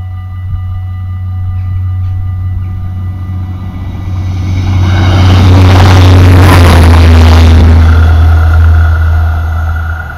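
Diesel passenger train passing over a level crossing while the crossing's warning bell rings. The train's noise builds from about four seconds in, is loudest around six to seven seconds, and fades by about nine seconds, with a steady low rumble underneath throughout.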